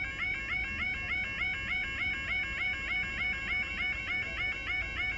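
Level crossing yodel alarm sounding continuously, a fast, evenly repeating electronic warble. It is still sounding because one barrier has failed to rise and the crossing is stuck in its closed state.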